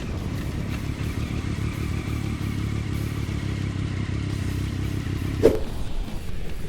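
Motorcycle engine running steadily under riding noise, with one sharp bang about five and a half seconds in.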